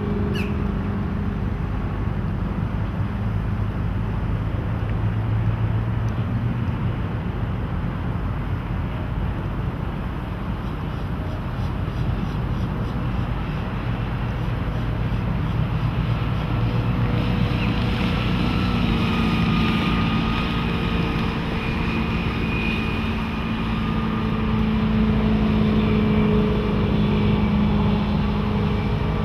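Volvo Penta 5.0L GL V8 sterndrive engine of a Glastron GT 209 runabout running under way, with wind and water noise. The engine note grows a little stronger and higher a bit past halfway.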